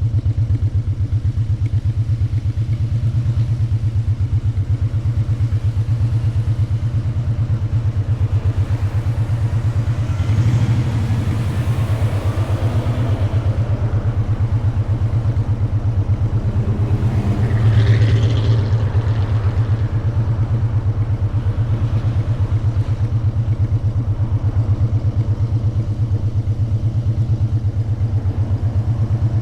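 Motorcycle engine running at steady, unchanging revs, its fast, even firing pulse going on throughout. Two brief swells of rushing noise come about ten and eighteen seconds in.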